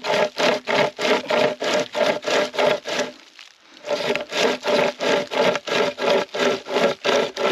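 Hand-pulled pocket chainsaw, its toothed cutting chain drawn back and forth through a piece of wood, making fast rasping sawing strokes at about four to five a second. It stops briefly a little after three seconds, then starts again at the same pace.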